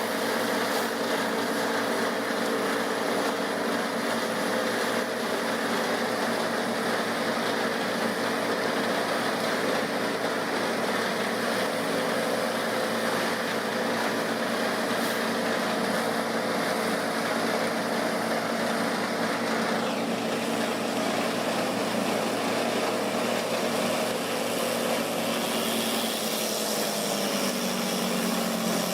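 Wood chipper's engine running steadily with a constant note. Near the end the note dips and then recovers.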